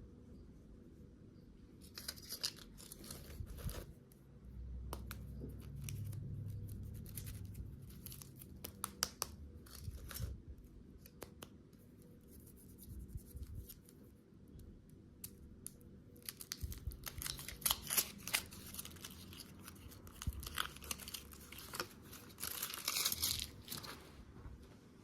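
Candy packaging being torn open and crinkled by hand, in bouts of crackling with scattered clicks and taps between. The busiest stretches come about two seconds in and again for most of the last ten seconds.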